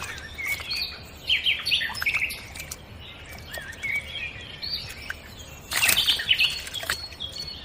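Small birds chirping and calling, many short, quick swooping notes overlapping. About six seconds in, a brief, loud burst of noise.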